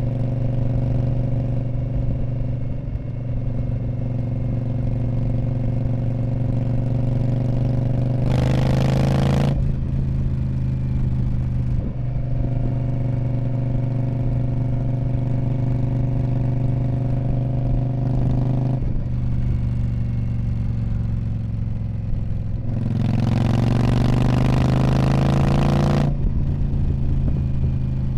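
2019 Indian Scout Bobber's liquid-cooled V-twin running through a Freedom Performance Radical Radius exhaust. The note is mostly steady and rises twice under throttle: briefly about eight seconds in, then for about three seconds near the end.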